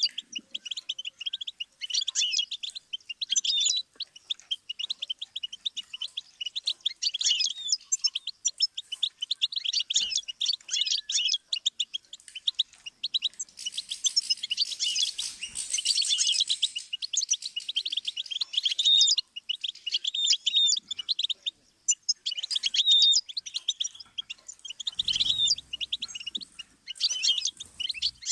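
Goldfinch song: fast, continuous twittering of high chirps and trills, fuller for a few seconds around the middle, with a few short breaks.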